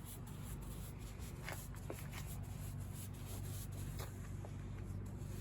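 Faint scratchy strokes of a brush working shellac over an old piano-case finish, a few light strokes, over a steady low hum.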